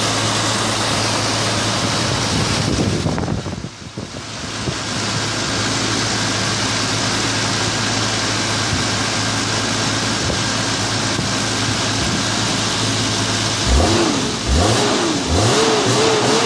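BMW M3 inline-six engine idling steadily, briefly quieter about three and a half seconds in. Near the end the throttle is blipped several times, the revs rising and falling quickly with each blip.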